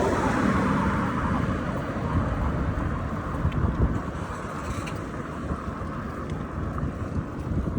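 Wind rumbling over the microphone of a camera riding along on a bicycle, with a louder rush at the start that fades over the first couple of seconds.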